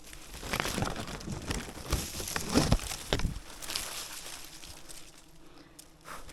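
Irregular crinkling and rustling with several sharp knocks, loudest around the middle, then fading to light rustling.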